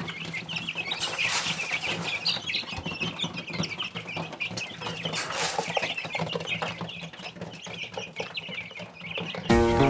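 Birds calling in the background, many short broken calls with scattered clicks and a faint low hum. Plucked-string music cuts in just before the end.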